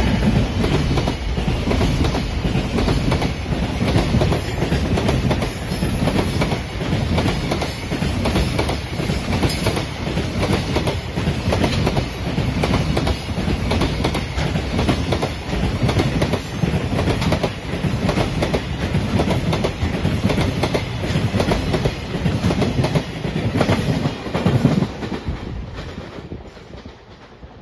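Container wagons of a freight train rolling past close by, wheels clicking steadily over the rail joints under a continuous rumble. The sound fades near the end as the train draws away.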